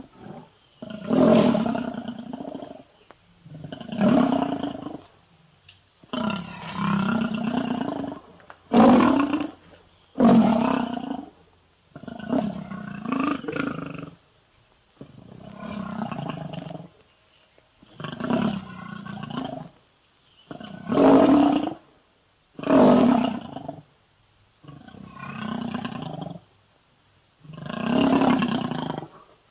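A run of lion roar and growl sound effects, about a dozen short roars in a row. Each lasts a second or two and is separated from the next by a brief pause.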